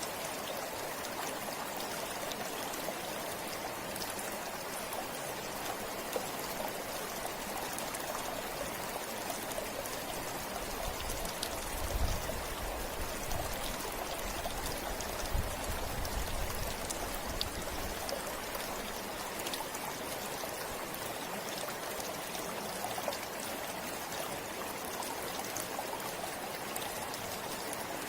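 River water flowing steadily, with low rumbles about halfway through.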